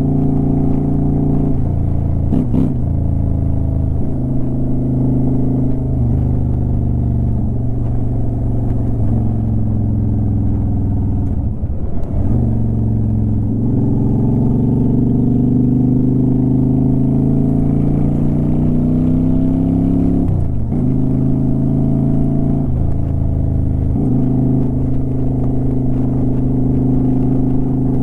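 Honda Shadow Aero 750 V-twin motorcycle exhaust under way. The engine note climbs steadily for several seconds as the bike accelerates in one gear, then drops sharply at a gear change about three-quarters of the way through, with a few other shorter shifts and changes in pitch elsewhere.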